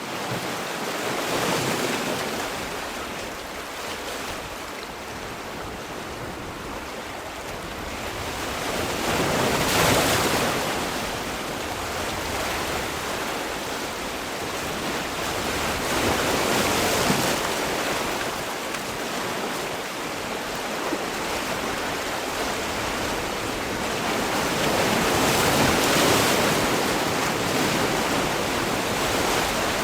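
Sea waves breaking and washing on the shore, with a steady rush of surf that swells every several seconds as each wave breaks.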